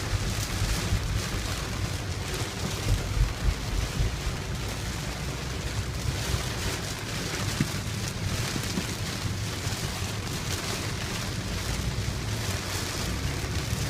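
Heavy rain drumming on a car, heard from inside the cabin while driving, over a steady low road and engine rumble, with a few louder swells of rain about three seconds in.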